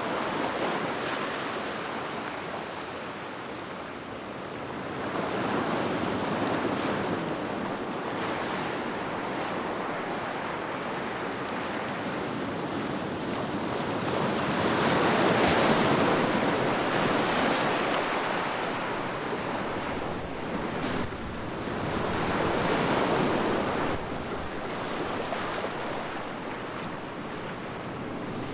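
Sea waves breaking and washing on the shore in slow surges, swelling and easing every few seconds, with the biggest surge about halfway through.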